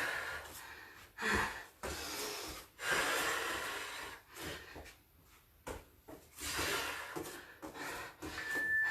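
A woman breathing hard in a series of forceful exhalations while exercising, with quiet gaps between breaths. Near the end comes a short, high, steady beep.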